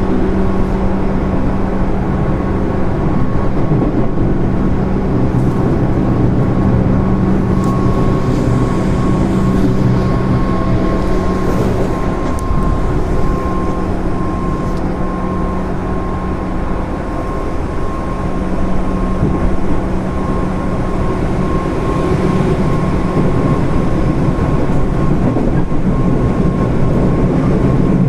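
JR 205 series electric train running, with the steady noise of wheels on rail and a low hum under a thin, steady higher whine. It dips slightly in loudness around the middle.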